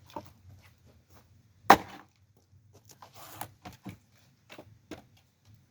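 An axe chopping into a log of firewood: one hard strike about two seconds in, followed by several smaller knocks and cracks of wood. A knot in the log is keeping it from splitting.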